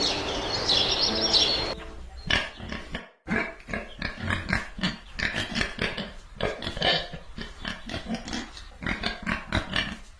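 Pigs grunting in quick, irregular short calls, several a second. Before them, a second or two of music with chirping birdsong cuts off.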